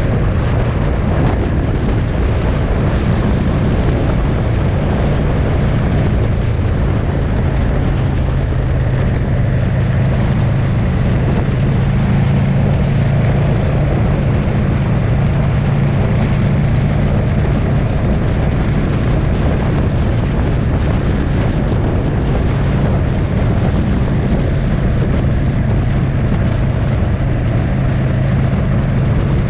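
Motorcycle engine running steadily while riding at a constant pace, with wind rushing over the microphone.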